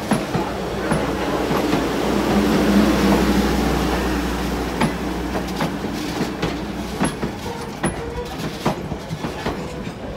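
Steam-hauled passenger train rolling past, its wheels clicking over the rail joints over a low rumble that swells to its loudest a few seconds in and then eases off.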